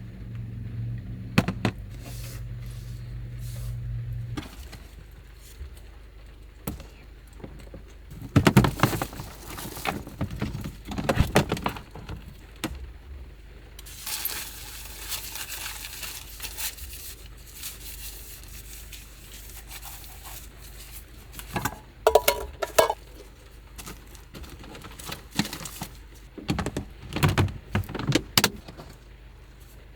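Small objects clattering, clicking and rattling as they are handled inside a small van, in several clusters. A low steady hum runs under the start and stops about four seconds in.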